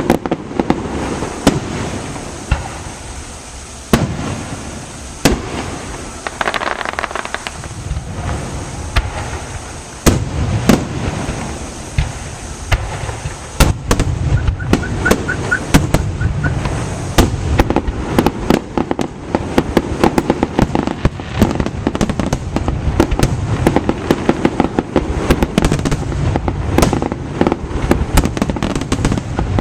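Fireworks display: aerial shells bursting with sharp booms, spaced a second or two apart at first, then a rapid, dense barrage of bangs and crackles from about halfway through.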